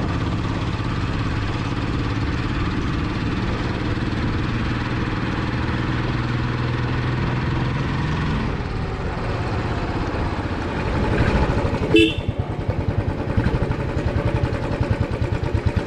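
Vehicle engine running, with a short horn toot about twelve seconds in, after which the engine settles into a regular throbbing idle.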